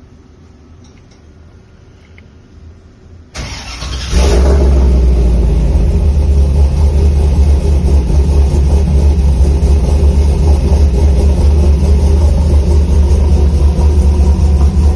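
Toyota FJ40 Land Cruiser engine cranking and catching about three and a half seconds in, then running steadily and loudly.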